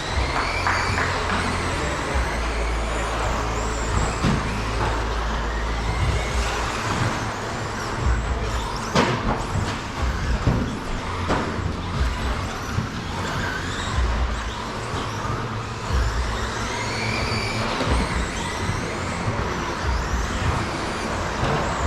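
Electric RC stadium trucks with 13.5-turn brushless motors racing: overlapping high motor whines rise and fall as they accelerate and brake around the track, with a sharp knock about nine seconds in.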